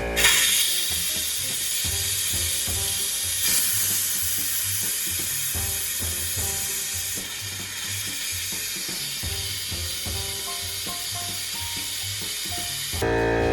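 Compressed air hissing out of an opened cold-water line as the plumbing is blown out for winter, sputtering as water is pushed out with it. The hiss starts suddenly and cuts off near the end, leaving a steady hum.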